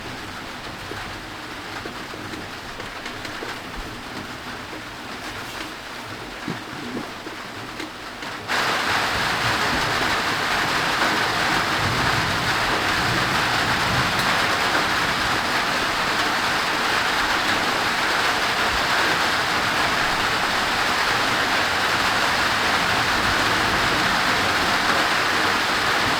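Steady heavy rain falling, which turns suddenly louder about eight seconds in and stays at that level.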